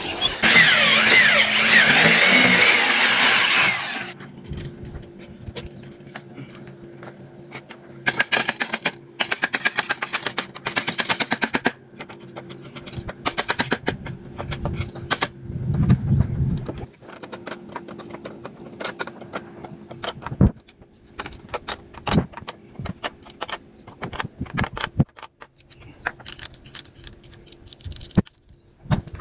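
Cordless impact driver driving screws into bamboo poles, hammering in rapid bursts of a few seconds each, with scattered knocks and clicks between. A loud scraping noise fills the first few seconds.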